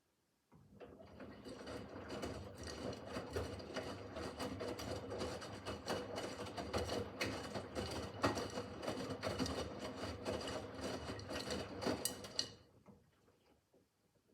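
Miele W5801 WPS washing machine drum turning during the wash: a steady motor hum with irregular clicking and clatter from the tumbling load. It starts about half a second in, runs for about twelve seconds, then stops and dies away, the pause of the stop-and-turn wash rhythm.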